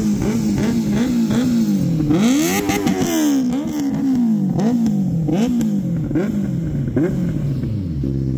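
Benelli TNT 600i inline-four motorcycle engine, fitted with an aftermarket full-system exhaust, revved in quick repeated throttle blips, about two a second, each rising and falling in pitch, then dropping back to a steady idle near the end.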